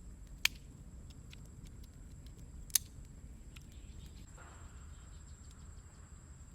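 Two sharp snaps a little over two seconds apart, with smaller scattered ticks over a low steady rumble; a soft hiss comes in after about four seconds.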